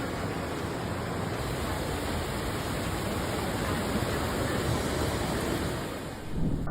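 Torrential rain pouring down, a steady rush of falling and running water, briefly louder near the end.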